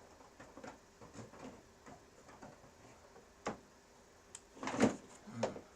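Handling noise as studio gear is set in place: light scattered clicks and taps, a sharp click about three and a half seconds in, and a louder knock and rattle near the end.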